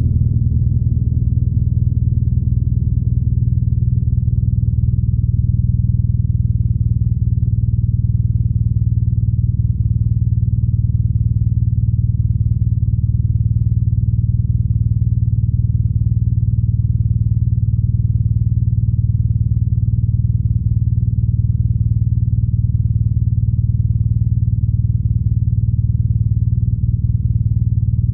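BMW R nineT's boxer-twin engine and exhaust running steadily as a low, even drone, with no change in pitch.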